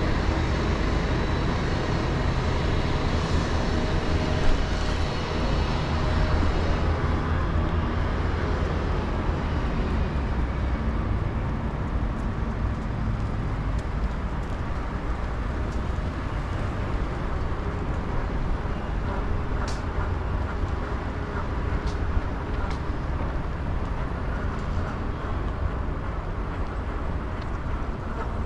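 Steady road and traffic noise on a moving scooter, with a heavy low rumble throughout. A few sharp clicks stand out, at about four seconds and twice near twenty seconds.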